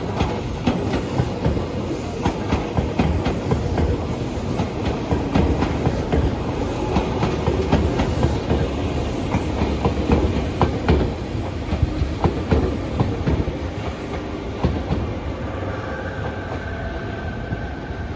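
Tobu Railway train running along the track, its wheels clacking rapidly over rail joints above a steady rumble; the clacking thins out after about fourteen seconds.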